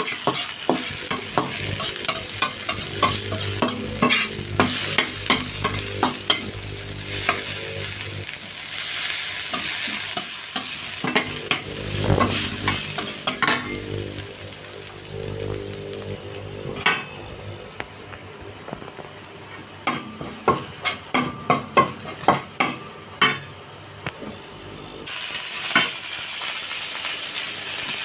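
Garlic sizzling in hot oil in a stainless steel wok while a slotted metal spatula stirs, clicking and scraping against the pan. The sizzle dies down for a stretch in the middle, with a run of sharp spatula taps, then jumps back up loudly near the end as chopped onion goes into the oil.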